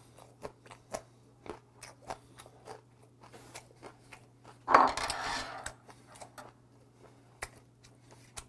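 Close-miked chewing: a run of wet mouth clicks and smacks from a person chewing food, with a louder breathy rush lasting about a second midway. A low steady hum runs underneath.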